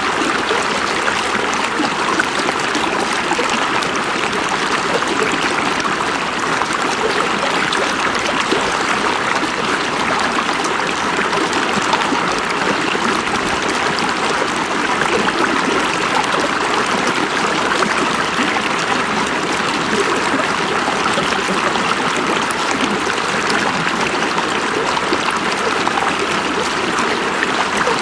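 River water flowing and babbling over stones, a steady rushing with fine splashing and trickling detail throughout.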